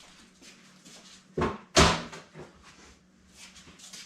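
Two thumps about half a second apart, the second louder, with light rustling in between, as parchment paper and sticky dough are handled on a kitchen counter.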